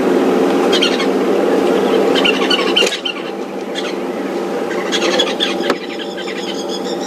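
Safari vehicle engine running steadily, with several short high-pitched squeals and chirps over it in three brief clusters.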